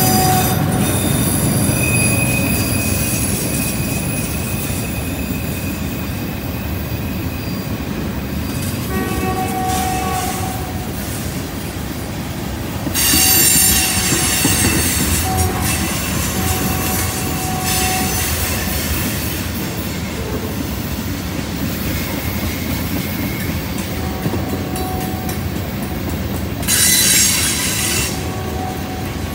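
Freight train of tank cars rolling past: a steady rumble of steel wheels on the rails, with high wheel squeal ringing on and off. Two louder, shorter bursts of screeching stand out, about halfway through and near the end.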